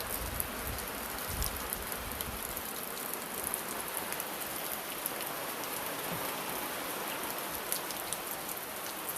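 Steady rain falling, with many small sharp drop ticks over an even hiss, and a few low thumps in the first couple of seconds.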